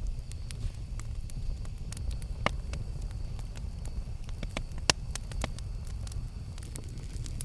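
Campfire crackling: a steady low rumble of burning wood with scattered sharp snaps, and two louder pops about two and a half and five seconds in.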